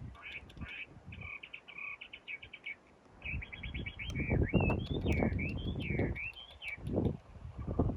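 A small songbird singing: quick repeated chirps in short trilled runs, then a warbling phrase of notes rising and falling. Low, noisy handling sounds surge underneath from about the middle on.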